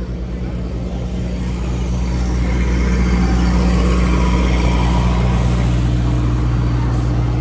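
A motor running steadily with a low hum, which grows louder over the first few seconds and then holds.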